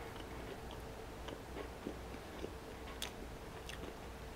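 Quiet chewing of a bitten fried chicken tender, mouth closed, with faint mouth clicks scattered through it.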